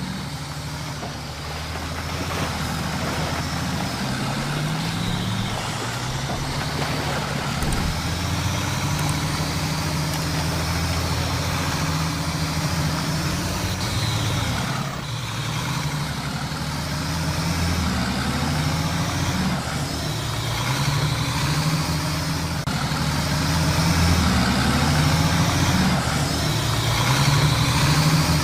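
Heavy truck engine running under way, its pitch rising and falling again and again, growing somewhat louder near the end.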